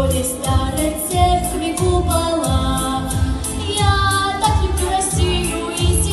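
A solo singer's voice carrying a melody over a pop backing track with a steady beat.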